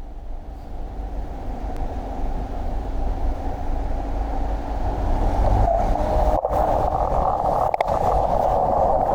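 Riding noise from a road bike on a rain-wet road: a steady rush of wind on the bike-mounted microphone with tyre and road rumble, growing louder over the second half.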